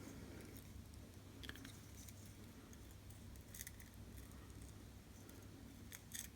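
Near silence: a faint steady low hum with a few faint scratchy ticks as a fine cutting wire is drawn between a cracked iPhone 5C front glass and its LCD, separating the glass.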